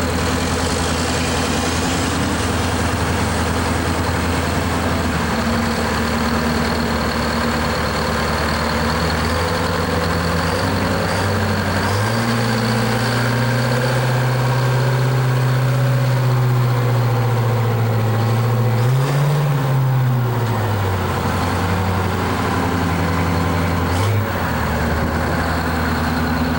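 Heavy truck engine running, its speed shifting up and down several times, with a short rise and fall in pitch about two-thirds of the way through. A faint steady high whine runs alongside.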